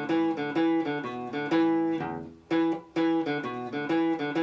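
Guitar playing a fast single-note E riff in the open position: quarter-note Es, then down-up picked eighth notes E, D, B, D. The phrase breaks off briefly about two seconds in and starts again.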